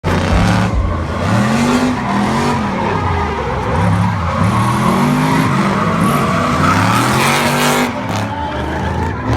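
Drift car on track, its engine revving up and falling back about once a second as the throttle is worked through a drift, over steady tyre squeal and skidding.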